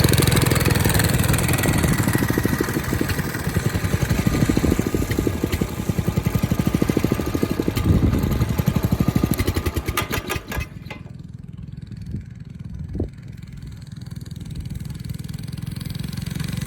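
Mini bike's small engine running hard under throttle, its firing pulses slowing about ten seconds in as it drops to a much quieter low run, then building up again near the end.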